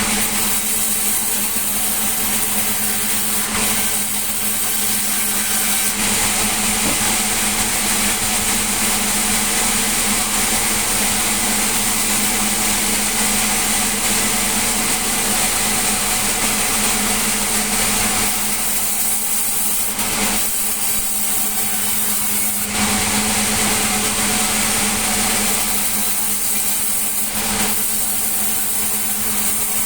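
Sawmill machinery running steadily: a constant low engine hum under a dense, hissing saw noise that shifts in tone a few times.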